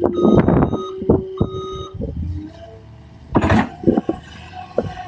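Reversing alarm of a skid steer beeping in short steady tones, mixed with loud knocks and clatter and a brief scraping rush about three and a half seconds in.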